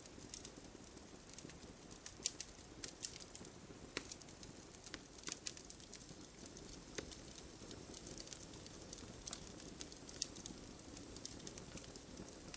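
Fireplace crackling faintly: irregular small snaps and pops, a few a second, over a low steady rush.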